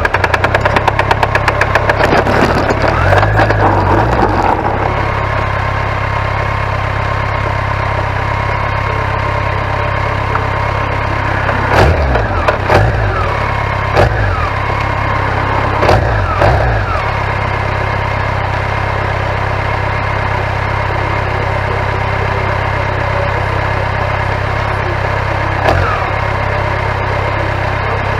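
1991 BMW K1100LT's inline-four engine running at a steady idle, with a fast rattle in the first few seconds and several short throttle blips through the middle and one near the end.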